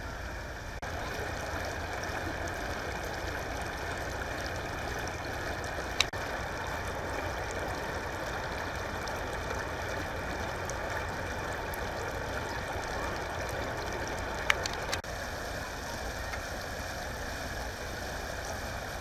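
Water from a broken water main rushing steadily through a flooded street, with a sharp click twice.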